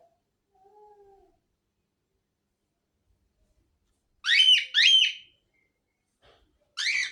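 Pet parrot calling: a faint low whistle about a second in, then two loud, sharp high calls in quick succession a little past four seconds, and a third near the end.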